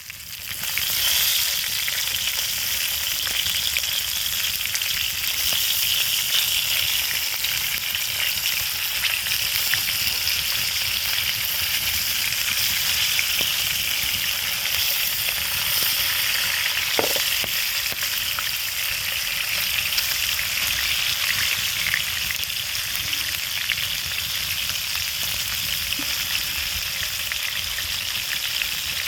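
Peled fish frying with a steady sizzle that swells up in the first second or so.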